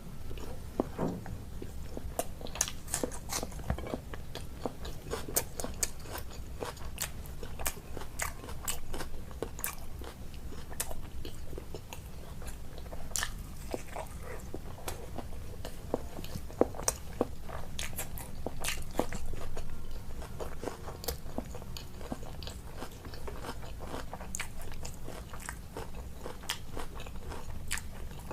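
Close-miked eating: a person chewing and biting, with many sharp, irregular crunches and wet mouth clicks.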